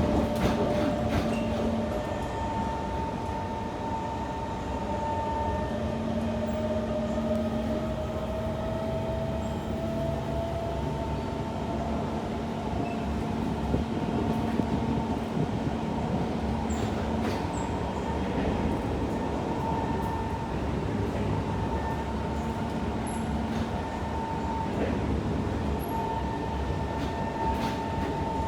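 Interior of a Kawasaki C151 MRT train running between stations: a steady rumble of wheels on track, with motor tones, one of which slowly rises in pitch over the first ten seconds or so as the train gathers speed. A few brief clicks come near the middle.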